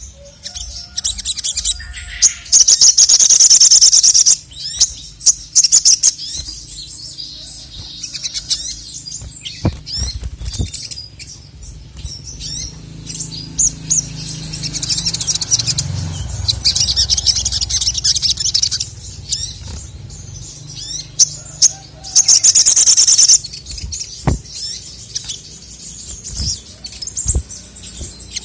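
Male sogon (sogok ontong), a sunbird, singing: several loud bursts of fast, high trilling song with scattered short chirps between them.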